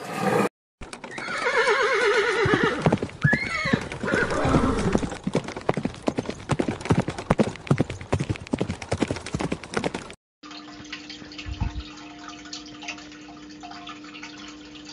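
A horse whinnies, one long neigh falling in pitch, followed by several seconds of rapid irregular clicking. About ten seconds in this gives way to a quieter steady low hum underwater, with a brief low rumble.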